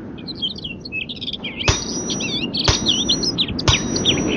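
Songbirds chirping and twittering over a steady low hiss. From about halfway through, a sharp tap with a short high ring repeats about once a second.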